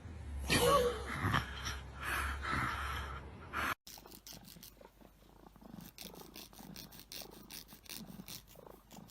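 Domestic cat: a short call about half a second in, then, after a sudden cut, a faint rhythmic purring.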